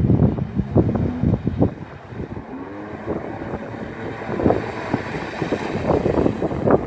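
Wind buffeting the microphone over a jet ski's engine running, with a few short rises and falls in its pitch.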